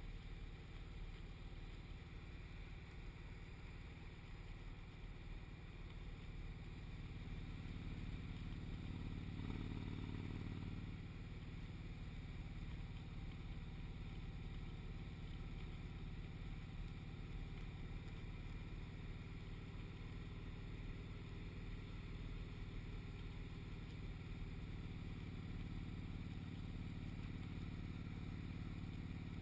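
Motorcycle engine running steadily at road speed, heard from on board, a low drone that swells and rises a little in pitch for a few seconds about a third of the way in before settling again.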